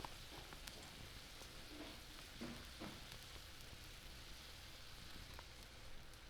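Chicken and leeks simmering in sauce in a skillet over a wood fire, sizzling faintly, with a few small ticks and pops.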